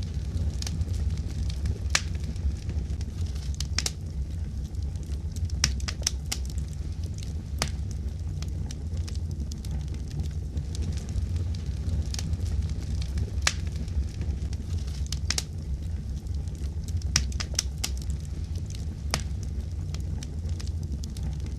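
Wood fire in a fireplace crackling, with irregular sharp pops and snaps, some in quick clusters, over a steady low rumble.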